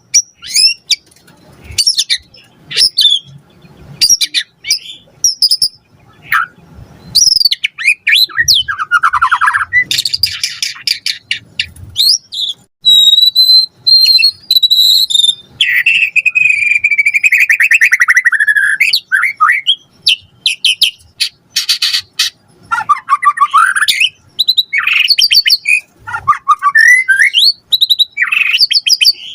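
White-rumped shama singing vigorously: a long, varied song of clear whistled glides, rapid trills and harsh chattering notes in quick succession, full of the mimicked phrases keepers call "isian".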